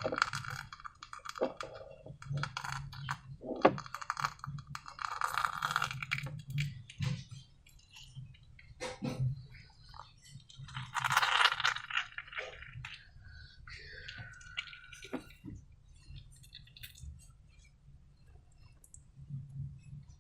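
Hands handling slime and balloons: irregular crinkles, clicks and light clinks, with a short squeak about two-thirds of the way through.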